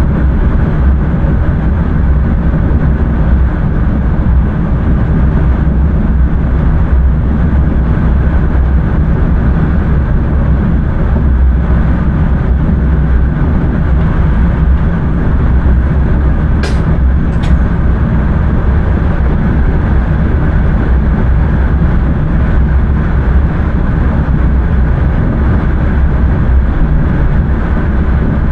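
Intercity train running, heard from inside the driver's cab: a steady low rumble with a hiss over it. Two short sharp clicks come close together about two-thirds of the way through.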